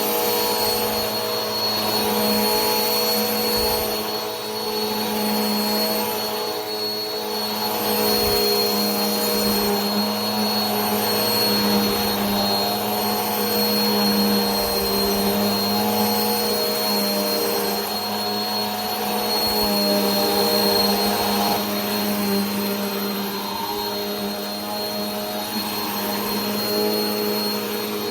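Vacuum cleaner motor running steadily: a constant airy rush with a low hum and a thin high whine, the level swelling and easing gently every few seconds.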